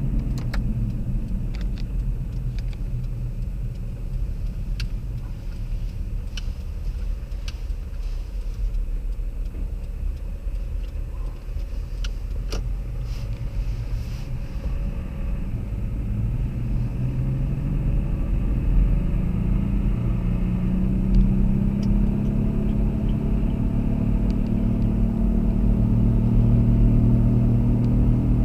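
Car driving, with a steady low engine and road rumble and a few faint clicks. From about halfway through, the engine note climbs steadily in pitch as the car accelerates.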